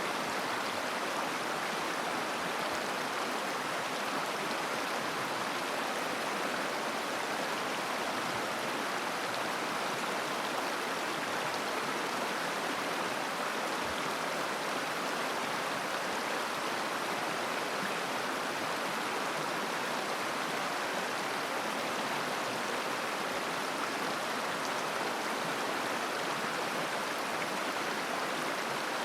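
Mountain river flowing over rocks: a steady, even rush of burbling water.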